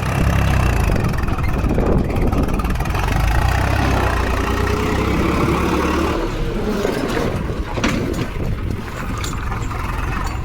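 Tractor engine running hard, heavy and loud for about six seconds, then dropping to a lighter running sound.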